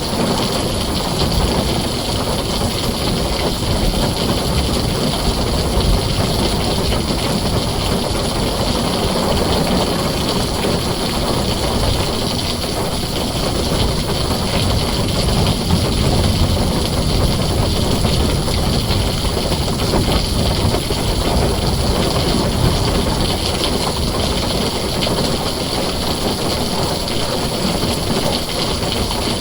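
Heavy rain falling steadily on a tin roof, a dense even hiss with a deep low rumble underneath.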